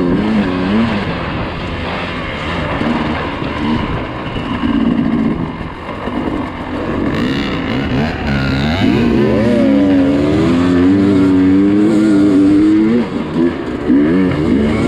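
Dirt bike engine revving up and down as the rider works the throttle on a trail. The pitch rises and falls repeatedly, with a climb near nine seconds into a louder stretch of high revs that lasts a few seconds.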